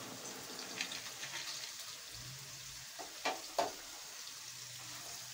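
Sliced bitter gourd and seeds shallow-frying in oil in a wok: a steady soft sizzle with a few sharp crackles, the two loudest close together about three and a half seconds in.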